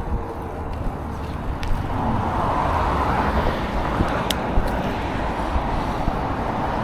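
Steady road noise of a moving vehicle: a low rumble with a tyre-like hiss that grows louder about two seconds in and then holds.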